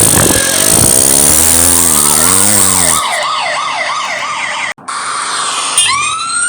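Police car siren sound effect. Under engine-like rumble and hiss, a fast yelping warble comes in about halfway through the first three seconds. Past the middle it cuts out briefly, then a new wail rises in pitch near the end.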